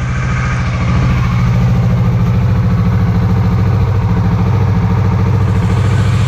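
Kawasaki Vulcan S's 649 cc parallel-twin engine running steadily through its stock exhaust, with a slight rise in level about a second in.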